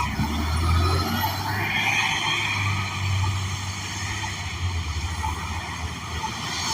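A New Flyer XN40 transit bus running, heard from on board: the low, steady rumble of its Cummins Westport ISL G natural-gas engine, with a hiss of road or air noise coming in about a second and a half in.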